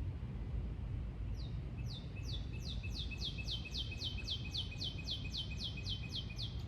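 A songbird singing a long trill of rapid, repeated downward-slurred high notes, about three a second, starting about a second and a half in and stopping near the end, over a steady low rumble.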